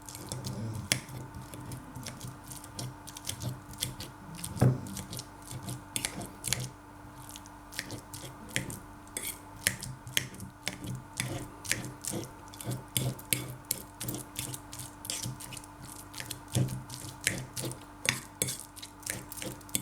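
Avocado being mashed in a dish, with irregular sharp clicks of the utensil knocking against the dish several times a second and soft squishing. A faint steady hum sits underneath.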